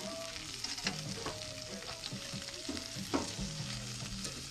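Redtail surf perch fillets frying in butter on a gas grill, a steady sizzle, with a metal spatula and fork clicking and scraping against the skillet and the grill tray as the fish is turned and lifted.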